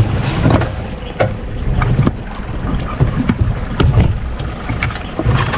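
Small wooden fishing boat under way, with wind buffeting the microphone as a low, uneven rumble and scattered sharp knocks throughout.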